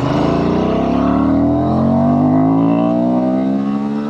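Honda XL750 Transalp's parallel-twin engine, its revs jumping up on a downshift and then climbing steadily as the motorcycle pulls in the lower gear. Near the end the revs drop sharply in a quick-shifter upshift.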